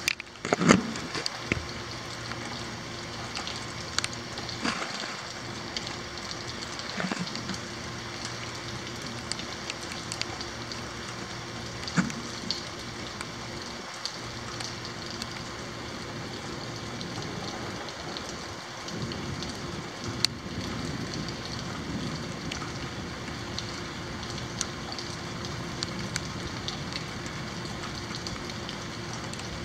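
Steady rain falling, with scattered sharp drips tapping close by, the loudest about a second in.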